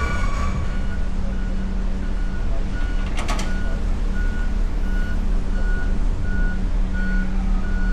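A vehicle's reversing alarm beeping about twice a second over a steady low engine rumble, with a brief metallic clatter about three seconds in.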